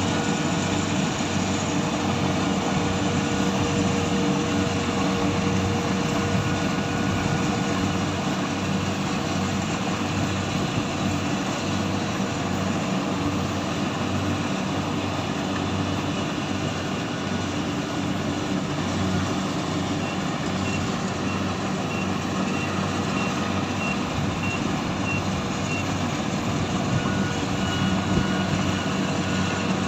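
Harvesting machine's engine running steadily under load with a low pulsing drone. About two-thirds of the way through, a warning beeper gives a run of about ten short, high, evenly spaced beeps.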